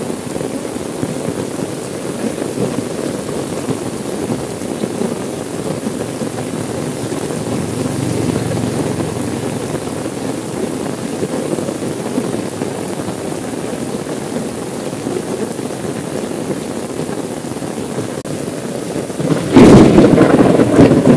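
Steady rain falling on a car's window and body, with a sudden loud clap of thunder near the end.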